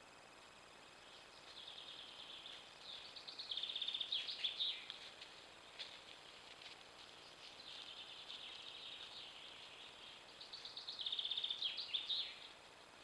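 A songbird singing, about three times, a short high phrase of quick repeated notes that ends in a flourish, over the steady faint hiss of a trail camera's microphone.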